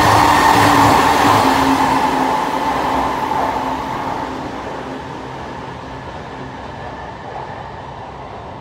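JR Kyushu 813 series electric train running through the station at speed, with loud wheel-on-rail noise and a steady low hum as its last cars pass. The sound then fades steadily as the train draws away.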